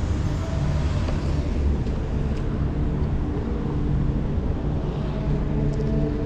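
Steady wind rumble on the microphone while cycling on a road bike, with motor traffic running nearby.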